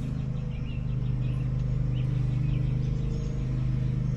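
A steady, unchanging low hum from a motor running in the background, like an engine idling, with a few faint short chirps in the first couple of seconds.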